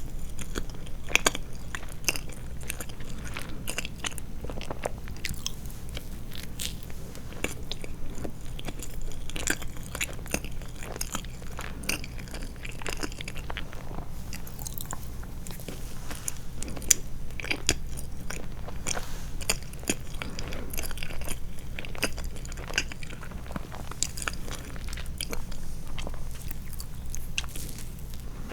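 Chewing and mouth sounds of someone eating soft sweets: a continuous run of small wet clicks and smacks with no speech.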